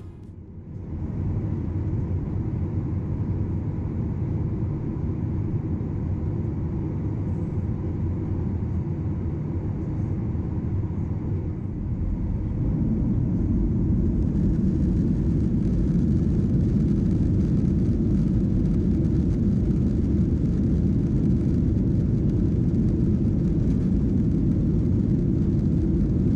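Boeing 737-800's CFM56 jet engines and airframe rumble heard from inside the cabin, a steady low roar that steps up in loudness about halfway through as thrust is increased, as at the start of the takeoff run.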